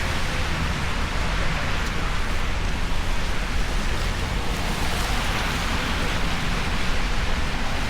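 Steady rain, an even hiss over a continuous low rumble.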